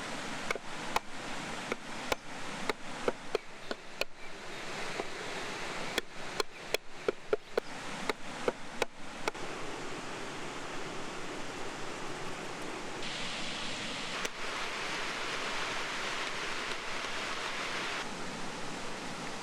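A knife chopping on a cutting board: a run of sharp, irregular strikes that comes faster for a few seconds and stops about nine seconds in. Steady outdoor hiss follows, growing louder for a stretch near the end.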